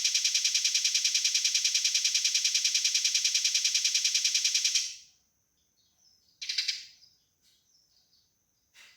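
Eurasian tree sparrow's fast, evenly spaced chattering call, about ten notes a second: the aggressive 'fighting' call. It stops abruptly about five seconds in, followed by one short chirp and a briefer, fainter one near the end.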